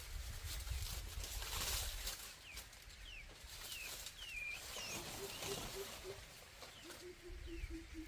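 Small birds chirping in short falling notes. From about halfway through, a hen clucks in a steady run of about four clucks a second.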